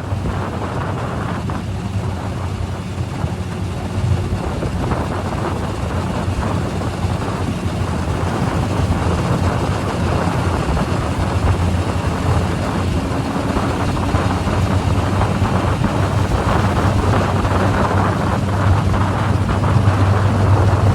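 Tohatsu 20 hp outboard motor running under way, pushing a 14-foot aluminium jon boat, a steady low hum under heavy wind buffeting on the microphone. The sound dips at the start and slowly grows louder.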